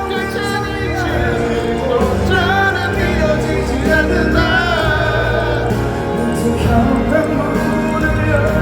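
Live band music played through a stadium sound system, with a singing voice carrying the melody over sustained bass notes.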